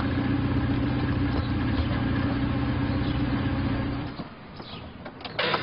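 A car engine running steadily, which cuts off about four seconds in; near the end comes a short loud rush of noise.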